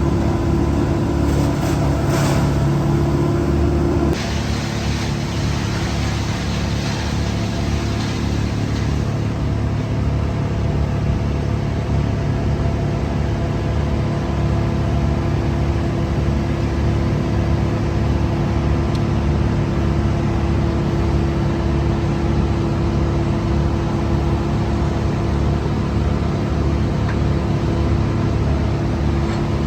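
Heavy equipment's engine running steadily with a low, even pulse; the tone shifts and drops slightly in level about four seconds in.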